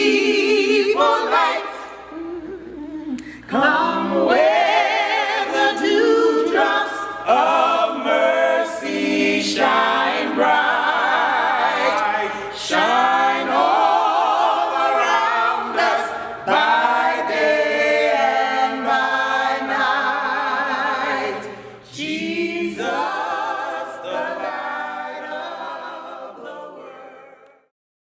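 Voices singing a hymn a cappella with strong vibrato, no instruments; the singing fades out near the end.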